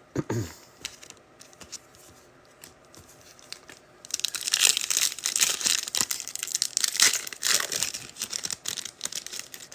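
Foil trading-card pack wrapper crinkling and tearing as a pack is opened, starting about four seconds in after a few faint clicks and lasting about five seconds.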